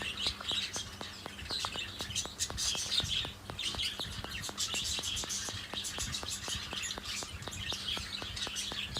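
Hagoromo budgerigars chirping and chattering continuously, with a steady fast ticking of about five clicks a second underneath.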